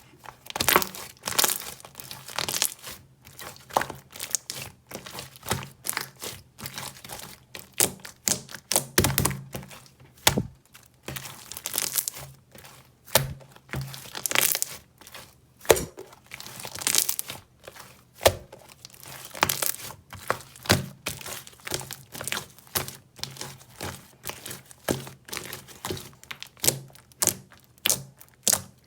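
Large blue clear jelly-type slime being squished and pressed by hand, giving irregular sticky pops, crackles and soft thuds.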